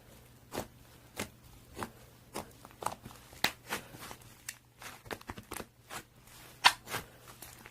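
A series of light, sharp clicks or taps at an irregular pace, about one to two a second, over a faint steady hum.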